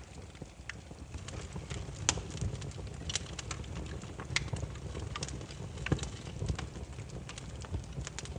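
Burning firewood crackling, with irregular sharp pops and snaps over a low steady rumble of flames; the loudest pops come about two seconds in and again near the six-second mark.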